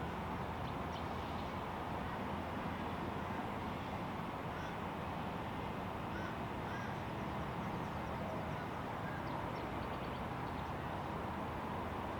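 Steady distant aircraft noise from the airport, with a few short, faint bird calls in the middle.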